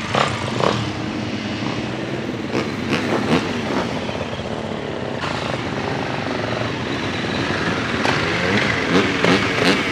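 Motocross bike engines revving hard on the track, their pitch rising and falling with the throttle and gear changes, more than one bike at a time.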